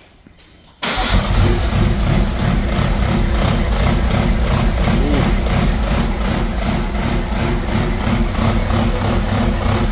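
BMW B58 turbocharged straight-six idling loud and rough through a straight downpipe with no catalytic converter; it comes in abruptly about a second in and runs with an even pulsing beat. The unsteady running is that of an engine on a not-yet-configured standalone ECU.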